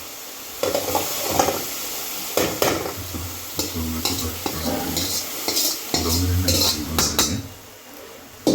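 A spoon or ladle stirring and scraping food in a cooking pot over sizzling, in irregular strokes. A low hum comes and goes.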